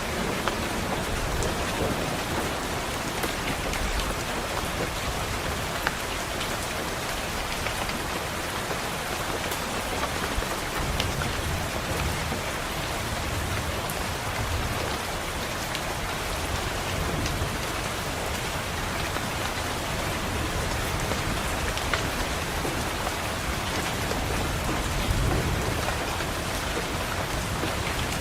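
Steady heavy rain falling on a window, with scattered light ticks of drops. Low thunder rumbles swell up twice, about halfway through and again near the end.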